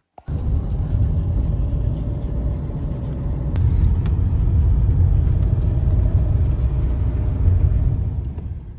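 Car on the move: a steady low rumble of engine and road noise, fading out near the end.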